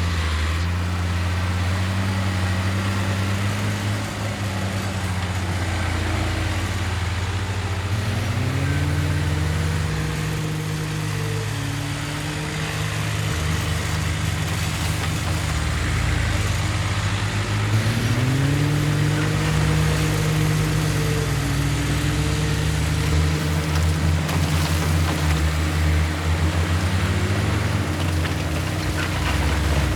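Heavy diesel engine of earthmoving machinery running and working, revving up twice, about eight and eighteen seconds in, and holding the higher speed for a few seconds each time before settling back.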